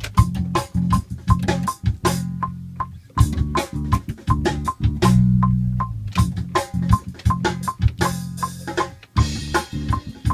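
A band playing: rhythmic drum hits over low, held bass-string notes.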